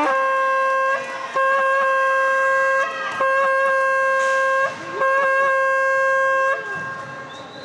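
A horn blown in four long blasts on the same note, each about a second and a half, with short breaks between them.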